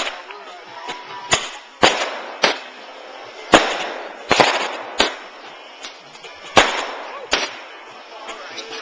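Consumer fireworks going off: a quick series of about nine sharp bangs, several trailing into a second or so of hissing, crackling aftermath.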